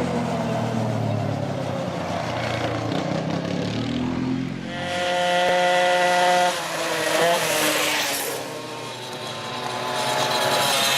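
Vintage motorcycle engines running, their pitch rising and falling as they rev. A strong, steady, higher-pitched engine note holds for about a second and a half around the middle.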